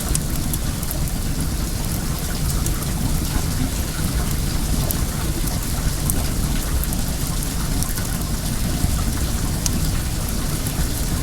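Wood bonfire crackling, with scattered sharp pops, over the steady rush of flowing well water.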